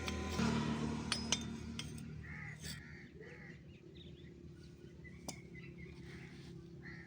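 A steady low machine hum that slowly fades, with a few sharp metallic clinks.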